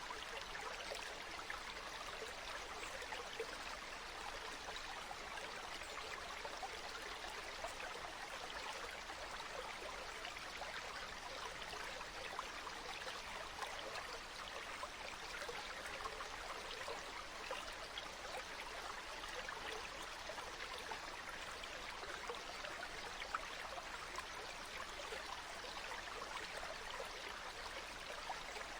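Water flowing steadily in a stream, an even rushing with fine trickling detail that does not change.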